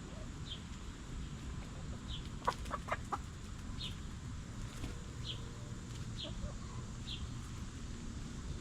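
Hens clucking, a quick run of four or five clucks about two and a half seconds in, over a short high bird chirp repeated about once a second.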